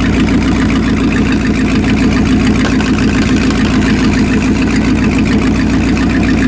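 Sterndrive boat engine running steadily at idle with its lower unit tilted up, a condition in which the owner says the U-joint makes trouble.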